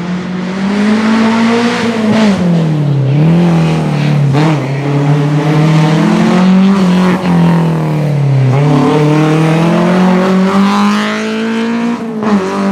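Historic rally car's engine pulling hard along a special stage. Its revs climb and drop several times, with sharp falls about two and a half, four and a half, eight and a half and twelve seconds in.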